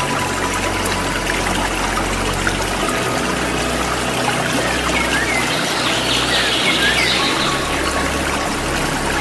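Waterfall water pouring and splashing in a steady rush, with a few songbird chirps partway through.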